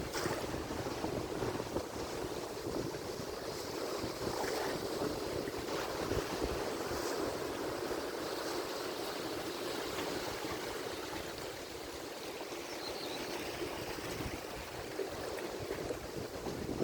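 Atlantic Ocean surf washing ashore in a continuous, even rush, without any single standout crash.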